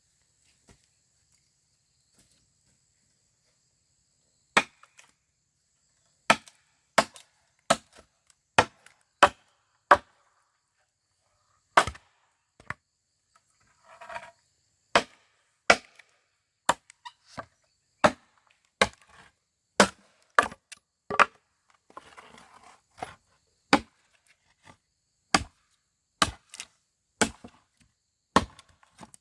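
Wood being chopped with a blade: a run of sharp, separate strikes about one to two a second, with short pauses between runs. It starts about four seconds in, and there is some brief rustling between strikes.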